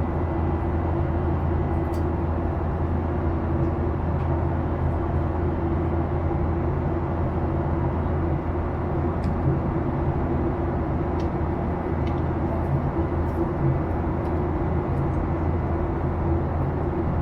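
Steady cabin noise of a Boeing 737-800 heard from inside the passenger cabin: a constant low engine hum with airflow and a few steady tones, and a few faint clicks.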